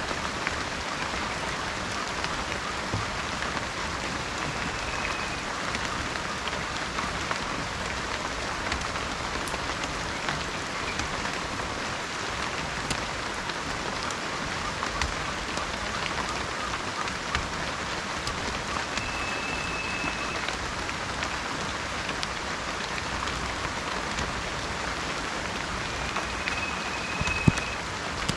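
Heavy rain falling steadily, a dense hiss scattered with individual drop taps. A faint short high tone comes three times, and one sharp tap near the end is the loudest sound.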